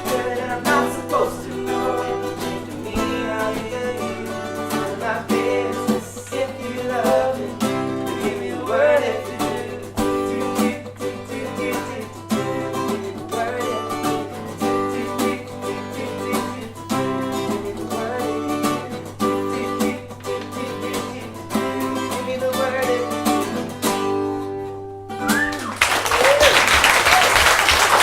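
Guitar-led live band music playing out the end of a song, stopping abruptly about 25 seconds in. The audience then breaks into loud applause.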